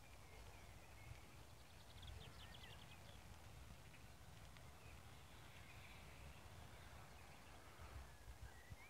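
Near silence with faint birds calling: scattered chirps, and a quick trill of rapid ticks about two seconds in, over a low rumble.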